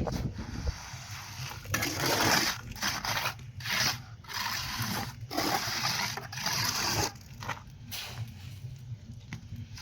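A series of irregular scraping strokes, each lasting under a second to about a second, separated by short pauses.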